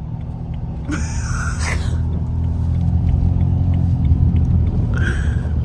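BMW 335i's 3.0-litre turbocharged straight-six and tyres heard from inside the cabin as a steady low rumble while driving on snow, growing louder from about a second in as the car picks up speed.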